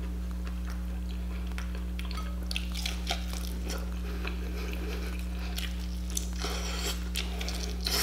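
Close-up eating of sauced fried chicken wings: chewing, lip smacking and wet little clicks as meat is pulled off the bone and chewed, scattered irregularly, over a steady low hum.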